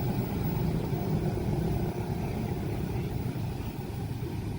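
Steady low rumble of vehicles or engines, even throughout, with no distinct knocks or tones.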